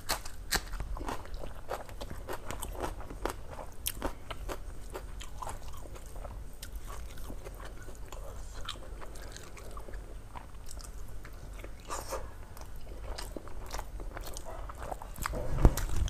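Close-miked chewing and crunching of a person eating rice and curry by hand, a dense run of small wet mouth clicks and crackles. A louder mouthful comes near the end.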